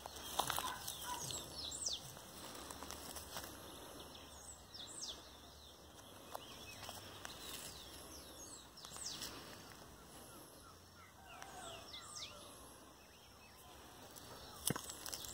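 Birds calling faintly in scattered, short, high chirps that slide downward in pitch. A few faint clicks, with a sharper one near the end.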